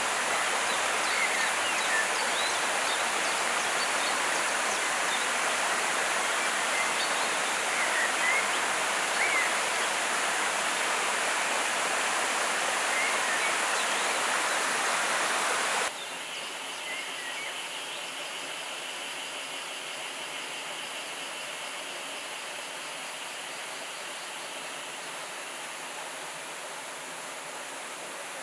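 Steady rush of a forest river flowing, with a few short bird chirps over it. About sixteen seconds in it cuts abruptly to a quieter, softer rush of water with a faint steady high hum.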